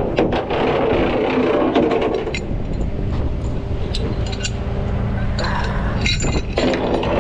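Tow truck running steadily, with scattered metal clicks, knocks and scrapes from towing gear being handled.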